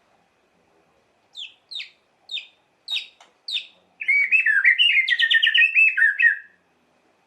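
White-rumped shama (murai batu) singing: five sharp, falling, high notes about half a second apart, then a loud, fast warbling phrase lasting about two and a half seconds.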